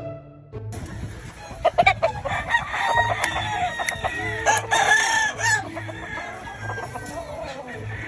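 Gamefowl roosters crowing, with chickens clucking. The crowing is loudest in the middle, with a few sharp clicks about two seconds in.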